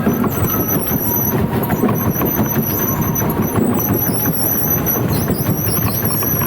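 A danjiri festival float rolling along the street: a dense, steady rumble with a wavering high-pitched squeal from its wheels that comes and goes.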